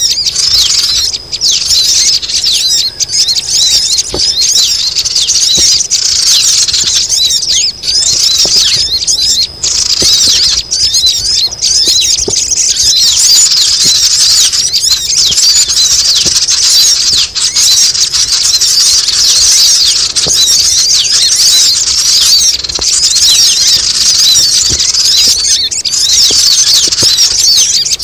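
Crimson sunbirds twittering and chirping over one another in a dense, continuous, high-pitched chatter. This is a noisy sunbird lure call, played to draw wild sunbirds down.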